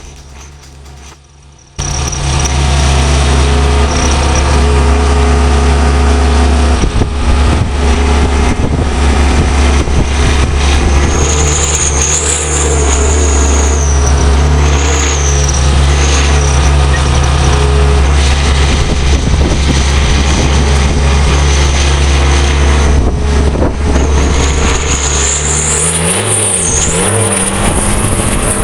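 Tractor engine running hard under load: a steady low drone that starts abruptly about two seconds in, with a high whine that rises and falls in the middle and again near the end.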